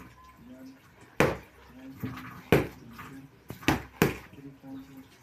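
Punches landing with sharp impact sounds: four strikes, about a second apart, the last two in quick succession. Faint voices are heard between them.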